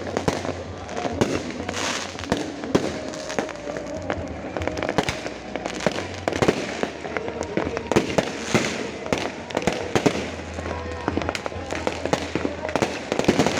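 Dense fireworks display: many shells bursting and crackling in quick, irregular succession, several bangs a second with no pause.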